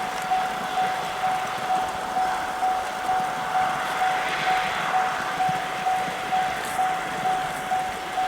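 Japanese railway level-crossing warning bell ringing, an electronic single-pitch 'kan-kan' about twice a second, over a noise that swells and fades midway.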